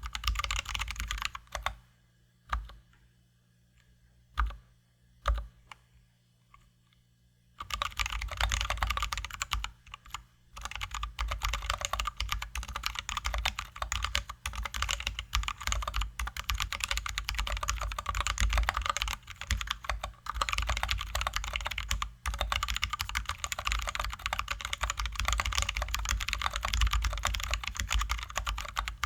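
Typing on a Drop ALT high-profile mechanical keyboard with lubed, filmed Zealios V2 67g tactile switches and XDA-profile keycaps: a dense run of keystrokes. About two seconds in it breaks off for some five seconds, leaving only a few single key presses, then the typing resumes and runs on with a couple of brief pauses.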